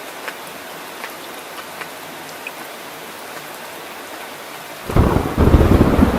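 Steady rain falling, with scattered drips ticking. About five seconds in, a loud clap of thunder breaks in suddenly and rumbles on.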